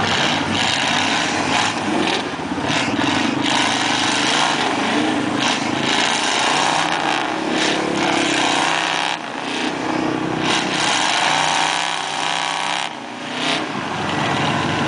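Truck engine revving hard through a mud hole, its pitch surging up and down, over a steady loud wash of noise.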